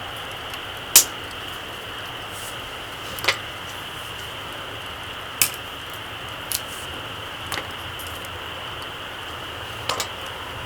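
Small campfire crackling: a handful of sharp pops every second or two, the loudest about a second in, over a steady hiss.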